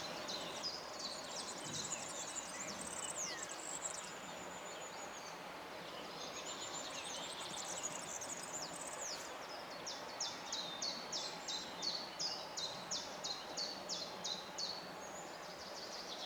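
Songbirds singing over a steady outdoor background hiss. Twittering high phrases fill the first half, then a run of evenly repeated high notes, about three a second, follows for several seconds.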